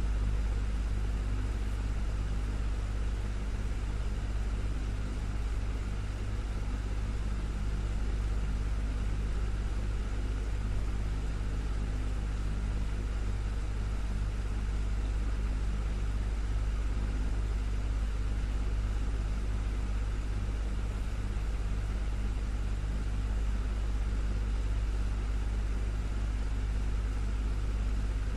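Desktop fan running steadily: an even rush of air over a deep, constant hum, with a few faint steady motor tones.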